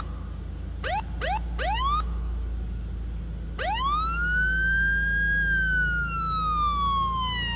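Electronic police siren: three short rising whoops, then about halfway in a long wail that rises quickly and slowly falls away, over a steady low hum.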